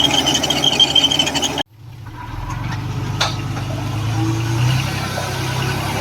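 Heavy diesel earthmoving machinery running, with a steady high squeal over the engine noise. About a second and a half in the sound cuts out abruptly and a steady low engine sound fades back in.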